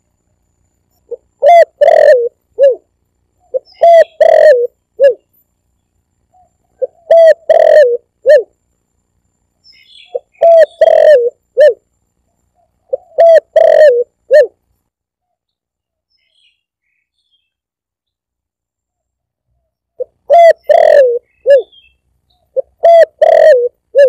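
Spotted dove (tekukur) cooing: a string of short, loud, multi-note coo phrases about every three seconds, with a pause of several seconds midway. This is the recorded call used as a lure to draw in spotted doves.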